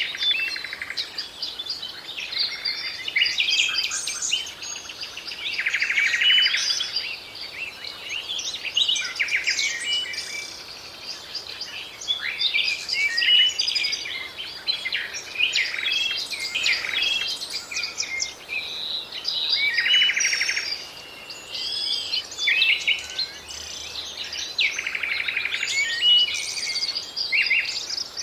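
Several birds singing and chirping at once: a steady chorus of quick trills, buzzy notes and short whistles.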